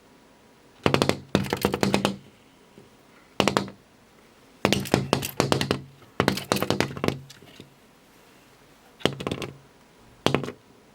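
Brown-eared bulbul striking a mirrored window pane at its own reflection: about seven bursts of rapid knocks on the glass, each a quick run of taps with a low ring from the pane.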